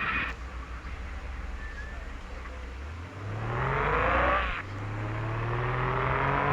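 Mitsubishi L300 engine accelerating: the engine note rises, drops briefly about four and a half seconds in at a gear change, then climbs again in the next gear.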